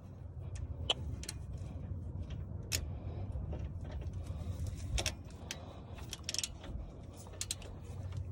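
Scattered metallic clicks and clinks of hand tools working on suspension bolts, irregular and sharp, over a steady low hum.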